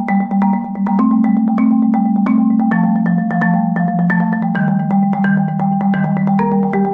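Marimba played with mallets: a quick, continuous stream of struck notes, a melody moving over held low notes.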